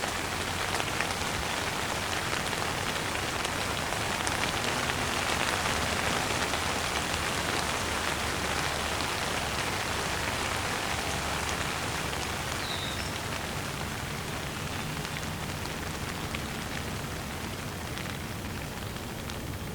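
Steady rain falling, a dense hiss of many small drops pattering on a surface, easing slightly toward the end. A single short high chirp sounds about two-thirds of the way in.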